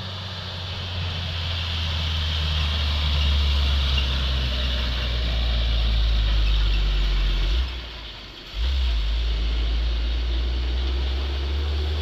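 Dump truck's diesel engine running with a steady low drone that builds over the first few seconds, drops away sharply for about a second near the middle and comes straight back.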